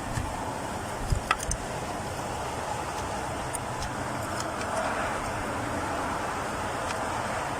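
Steady traffic hum with a few short knocks and clicks about a second in, from hands fitting a fuel injector and its electrical connector.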